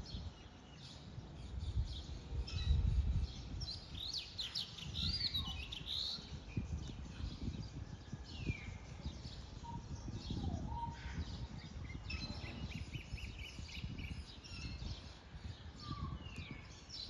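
Small birds chirping and calling, many short high chirps with a few falling calls, over a low rumble that is loudest about two to three seconds in.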